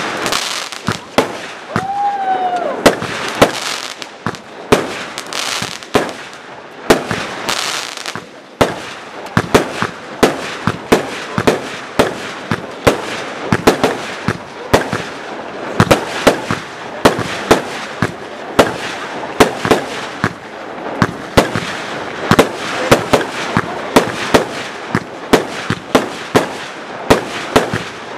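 Fireworks display: aerial shells bursting in quick succession, a rapid run of loud bangs over continuous crackling.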